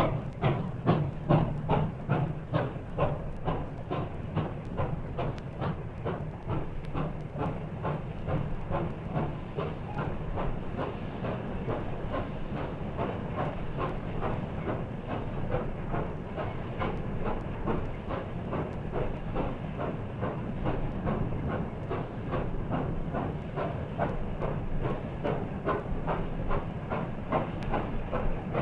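Steam locomotive working, its exhaust beating in a fast, even rhythm of several chuffs a second, with steam hiss, heard on a band-limited 1950s recording.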